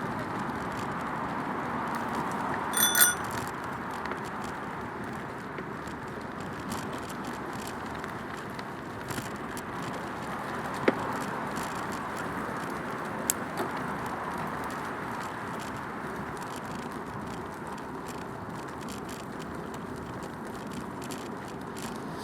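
Bicycle riding downhill on a path, heard from a recorder mounted on the bike: steady tyre and rolling noise. A bicycle bell rings briefly, twice, about three seconds in, and a few sharp clicks come later.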